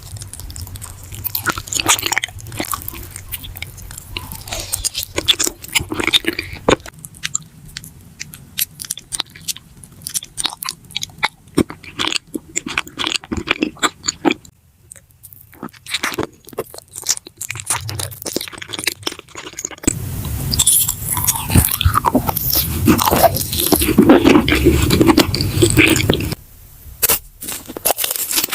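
Close-miked eating sounds: crisp bites and crunchy chewing, a steady run of sharp crackles. About twenty seconds in the sound turns denser and louder.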